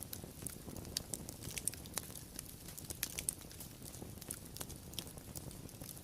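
Wood fire crackling: irregular sharp pops and snaps, several a second, over a low steady rumble of the burning.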